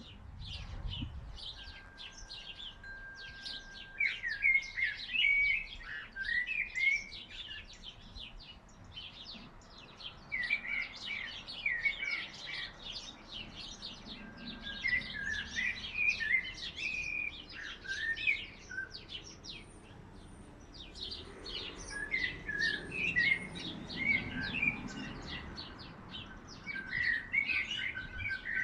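Garden songbird chorus: one bird sings clear, flute-like phrases in bursts every few seconds over many other birds chirping continuously, with an occasional long, steady whistled note.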